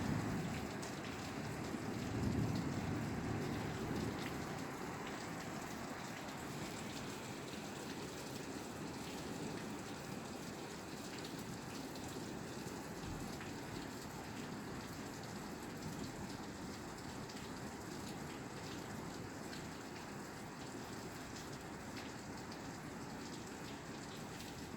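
Steady rain falling on a roof, a constant hiss with many small drop hits through it. A low rumble in the first few seconds fades away.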